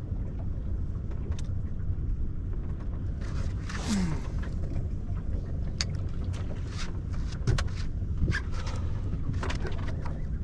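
A boat's engine runs with a steady low rumble. Scattered short clicks and knocks sound over it.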